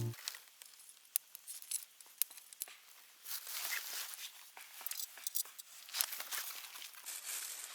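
Faint, irregular crackling and clicking: scattered sharp ticks, denser for a few seconds in the middle.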